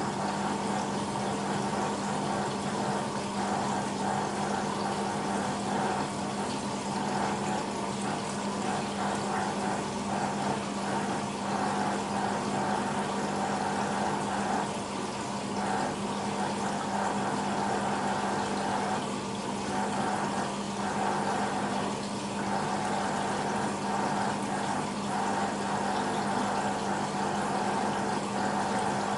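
BEKO WMB 51441 front-loading washing machine moving water: a steady low hum from its pump or valve with water rushing and sloshing.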